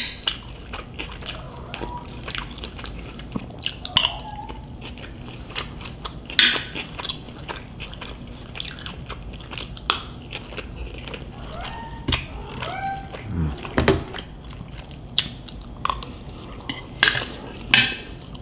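Close-up eating sounds of crispy deep-fried pork: bites and chewing with many short crunches and mouth clicks, irregularly spaced.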